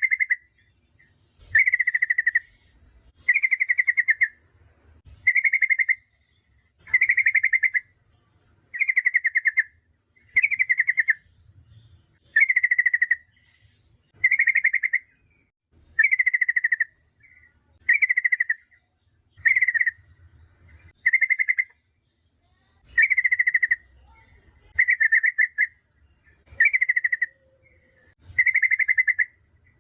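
Yellow-vented bulbul calling: short chattering phrases, each a quick run of rapid notes, repeated about every two seconds. It is a lure call, played to make other bulbuls answer.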